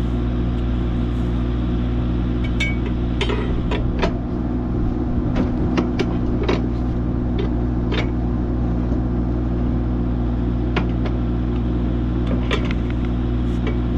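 An engine running steadily at idle, with scattered sharp knocks and clanks as a heavy engine is set down onto its mounts.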